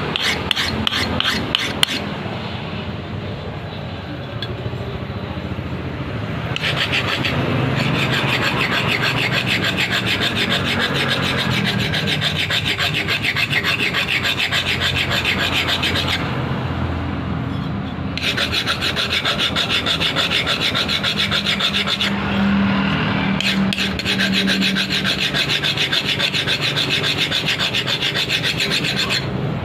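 A hand file rasping over a ketinting boat engine's propeller in fast repeated strokes, with a few short pauses, reshaping the propeller blades during the repair.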